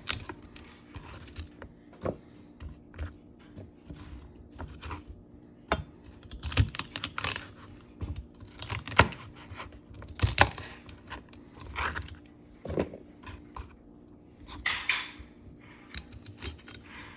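A kitchen knife chopping celery on a cutting board: irregular knocks and crunches of the blade going through the stalks onto the board.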